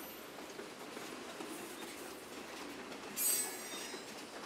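Railroad cars rolling past with a steady rumble of wheels on the rails, and a brief high-pitched wheel squeal a little over three seconds in.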